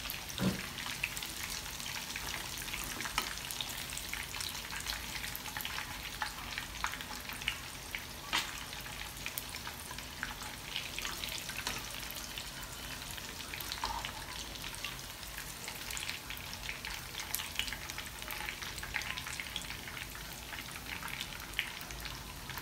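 Mutton chops sizzling and crackling in hot deep-frying oil in a pan, with a few louder clinks of a steel slotted spoon against the pan as pieces are lifted out.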